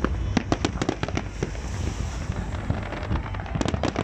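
Fireworks display: a quick run of sharp bangs and crackles from bursting aerial shells over a steady low rumble, with clusters of bangs about a second in and again near the end.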